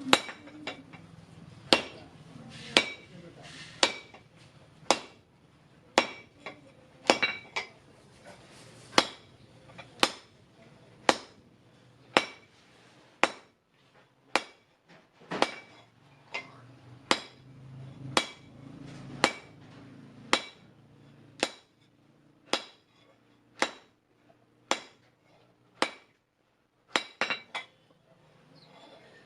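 Hand hammer striking steel on an anvil at about one blow a second, each strike ringing metallically, with a quick flurry of blows near the end. The steel is from a truck leaf spring being forged.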